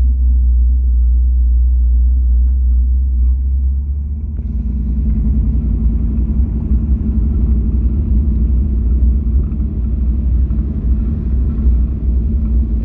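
Steady low rumble of a car's engine and road noise heard from inside the moving car; the sound roughens a little about four seconds in.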